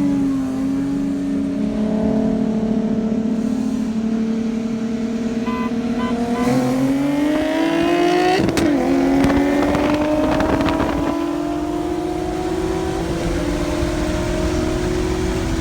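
Nissan 370Z's 3.7-litre V6 under hard acceleration: the engine note holds steady, then rises, drops sharply at an upshift about eight and a half seconds in, and climbs again through the next gear.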